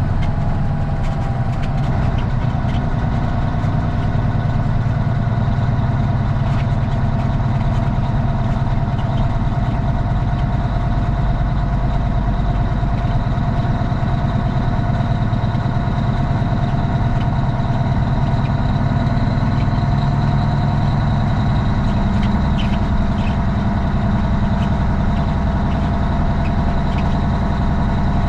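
Straight-piped Cummins ISX diesel in a Kenworth T800 running steadily at low revs, a deep even drone with a faint steady high whine above it.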